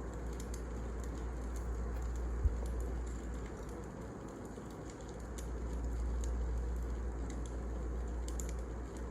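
Wood fire crackling with scattered small pops over a steady low rumble, with one sharp knock about two and a half seconds in.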